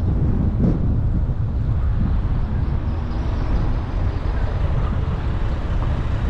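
A car in motion on a motorway: a steady low rumble of road, tyre and engine noise with no breaks.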